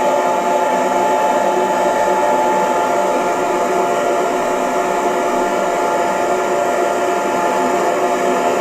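Hair dryer running steadily: an even blowing rush with a steady motor whine on top.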